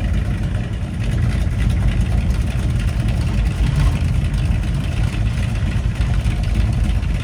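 Classic car engines running as the cars drive slowly past, a steady low engine sound.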